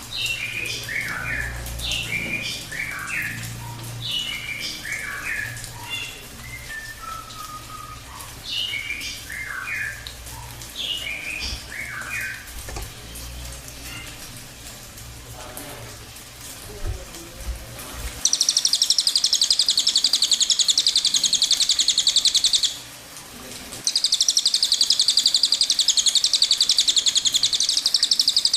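Cililin songbird singing: short chirped phrases sliding down in pitch, then about two-thirds of the way in a loud, dense, very rapid high trill (the 'tembakan' burst). The trill breaks off for about a second and then resumes.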